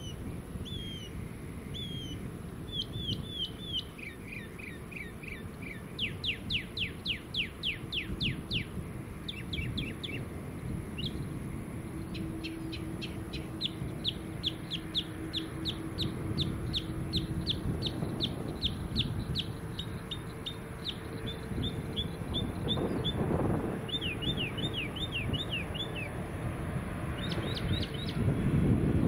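A songbird singing: phrases of quick repeated notes, down-slurred chirps and fast trills, switching to a new pattern every few seconds, over a low steady rumble.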